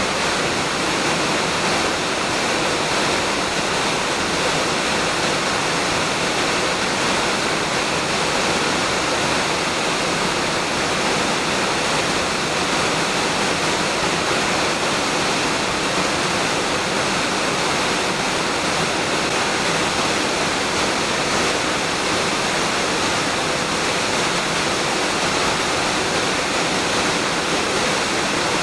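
Ōgama Falls, a waterfall about 20 m high with a heavy flow, pouring steadily into its deep plunge pool: a constant, even rush of falling water.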